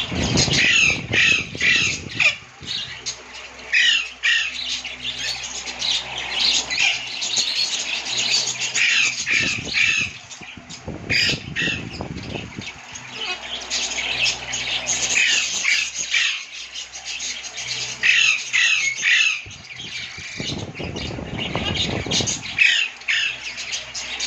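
Lovebirds squawking and chirping in repeated shrill bursts of chatter every few seconds. A few low rumbles come and go underneath, around the start, about ten seconds in, and near the end.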